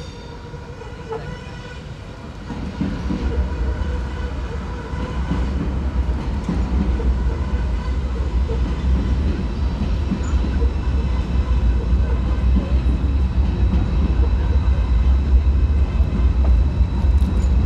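Deutsche Bahn ICE 4 high-speed electric train running past at close range. A low rumble builds from a couple of seconds in and grows louder as the cars go by, with a steady whine above it and an occasional clack from the wheels.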